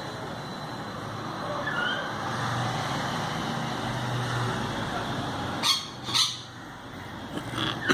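Common myna calling: a few short chirps, then two loud harsh squawks about half a second apart, and another near the end, over a steady background rumble.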